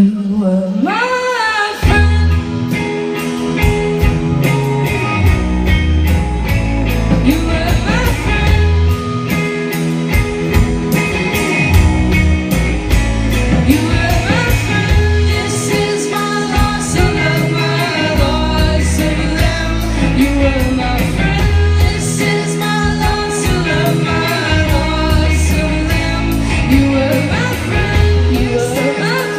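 Live rock band playing with a sung vocal over drums, bass and guitar; after a sparse opening the full band comes in about two seconds in, with a steady drum beat.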